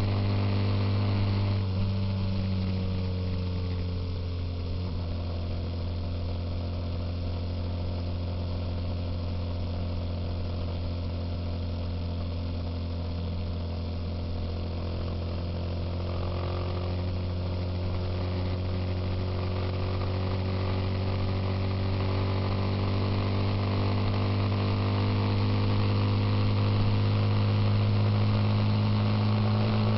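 Suzuki Intruder motorcycle engine running under way, a steady engine note. It eases off about two seconds in, then the pitch climbs gradually over the second half as the bike speeds up.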